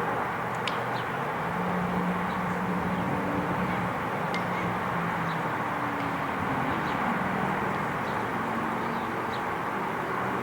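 Steady open-air background noise at a ball field, with faint distant voices and a few short, high chirps scattered through it.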